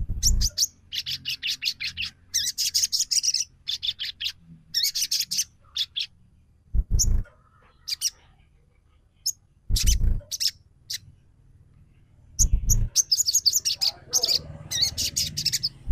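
Sogon trotol bird calling in repeated phrases of rapid, high chattering trills with short gaps between them, a recorded lure call used to provoke other sogon into calling. A few short low thumps come about 7, 10 and 12.5 seconds in.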